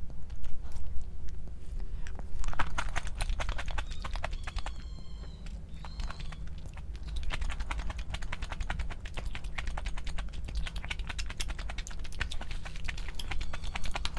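Close-miked eating: chewing with a dense, irregular run of wet mouth clicks and smacks, over a steady low hum.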